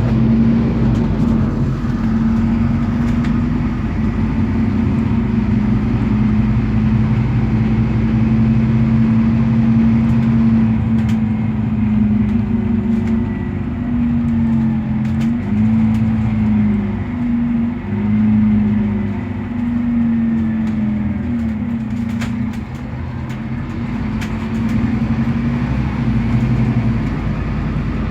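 Scania DC9 five-cylinder diesel engine of a Scania K280UB city bus, driving with a ZF Ecolife automatic gearbox: a steady drone that steps up and down in pitch several times in the middle and eases off about two-thirds of the way through.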